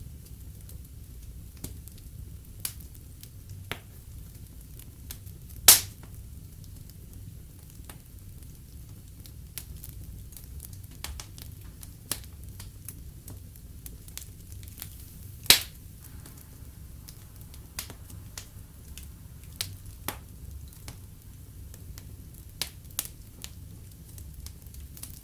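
Wood fire burning in a fireplace, crackling with irregular sharp snaps over a low steady rumble. Two much louder pops stand out, about six seconds in and again about fifteen seconds in.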